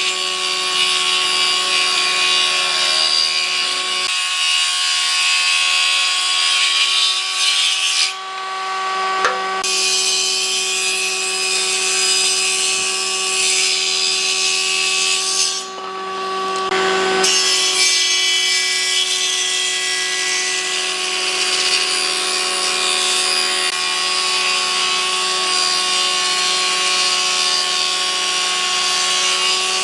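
Electric power tool working wood: a steady motor whine runs throughout under a harsh, dense hiss of the tool biting into the wood. The hiss lifts off twice, briefly, about eight and sixteen seconds in, while the motor keeps running.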